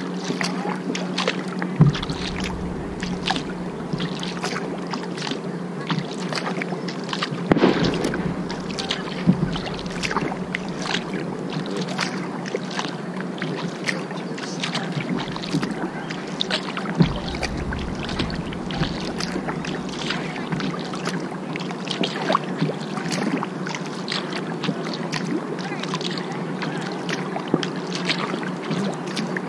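Kayak paddling: repeated splashes and drips of water off the paddle blades, over a steady low hum.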